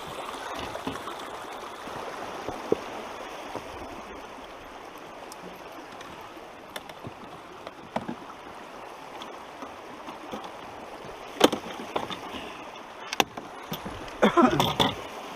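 Steady rush of flowing stream water, with a few sharp knocks and a louder clatter near the end.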